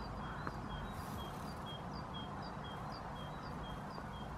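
A small bird singing a quick repeated two-note phrase, high and low notes alternating a few times a second, stopping shortly before the end, over a steady low rumble.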